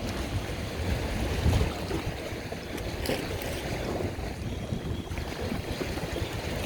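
Wind buffeting the microphone in uneven gusts over a steady wash of waves.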